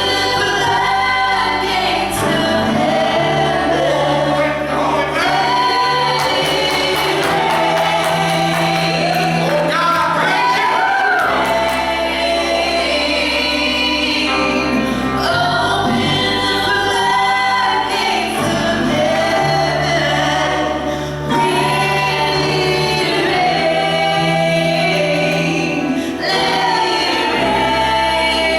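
Church choir and congregation singing a slow gospel worship song over long held bass notes that change every few seconds.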